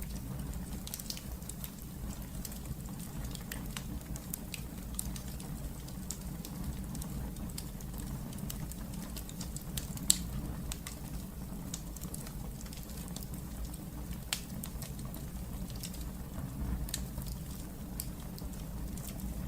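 Wood fire crackling in a fireplace: scattered sharp pops and snaps over a steady low rumble, with one louder pop about halfway through.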